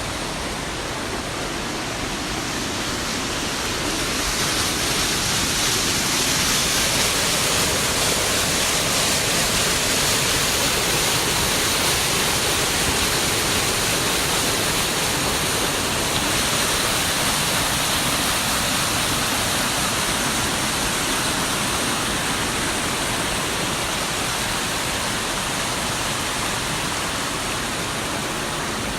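Rushing water, a steady cascade that swells about four seconds in and eases slightly near the end.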